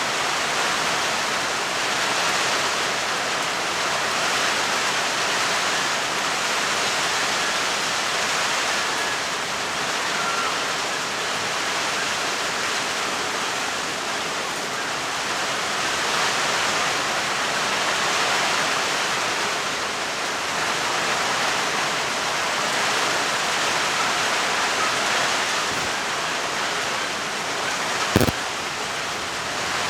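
Steady rainfall, an even hiss with no thunder, and one sharp click near the end.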